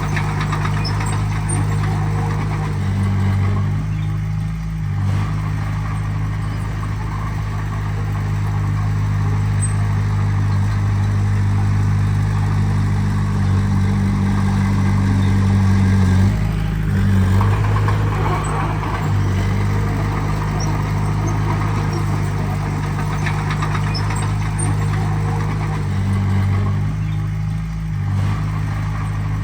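Heavy diesel engine of earthmoving equipment running steadily under work, its note shifting briefly three times as the load changes.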